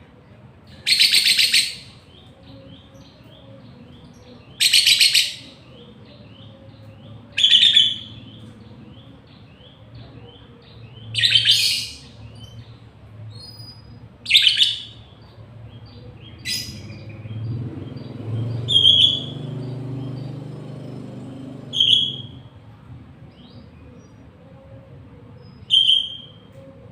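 Caged lovebird and other songbirds singing: loud, harsh, roughly one-second bursts of chatter every few seconds, with quick series of high chirps in between. A low rumble builds and fades midway.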